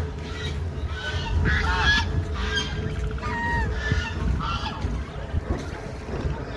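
Several domestic waterfowl calling over and over, short overlapping calls from more than one bird, with a steady low rumble underneath.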